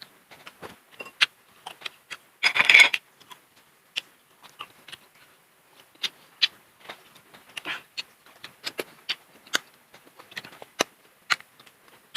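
Close-up eating sounds: a person chewing and cracking food, with irregular sharp clicks and crunches, and one louder crunching burst about two and a half seconds in.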